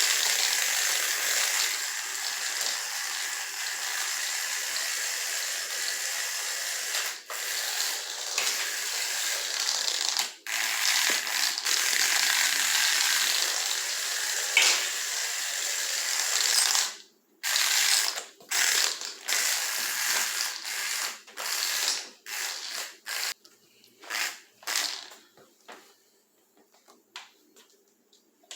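Hot Wheels RC Tesla Cybertruck, a 1:64 scale remote-control toy, running fast with its tiny electric motor and gears giving a steady high buzz, broken by a few brief dropouts. About seventeen seconds in, it changes to short stop-start bursts of motor noise that die away near the end.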